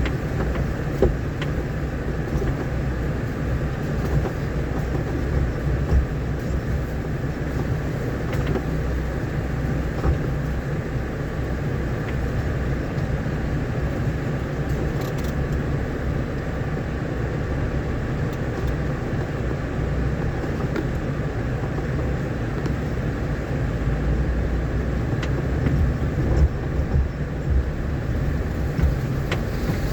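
A vehicle driving along a rough, rain-damaged dirt road: a steady low rumble of engine and tyres, with occasional short knocks and jolts, several of them close together near the end.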